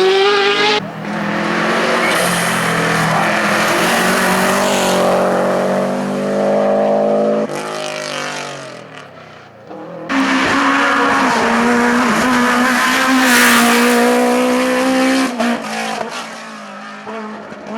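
Race car engines at full throttle on a hill climb, pitch rising and stepping through gear changes. The first car's sound falls in pitch and fades away about eight to nine seconds in. Another loud engine cuts in suddenly at about ten seconds.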